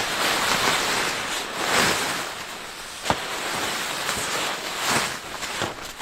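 Wind rushing in a snowstorm, swelling in gusts, with a sharp click about three seconds in.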